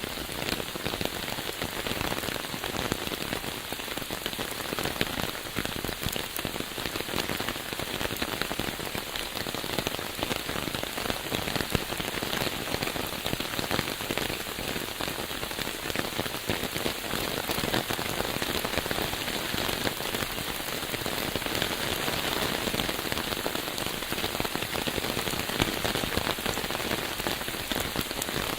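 Steady rain falling, a dense, even patter of many small drops without a break.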